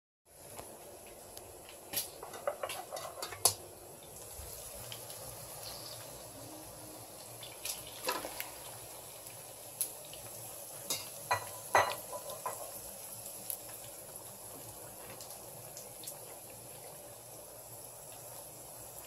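Chopped tomatoes sizzling in oil in a wok, with a steady frying hiss. A metal spoon scrapes and clinks against the pan as they are stirred, in sharp knocks, in bunches about two to three seconds in and again around eight to twelve seconds.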